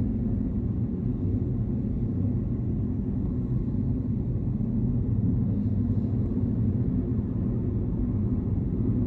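Jet-engine drag car running, a steady deep rumble heard from inside a car with a window cracked open.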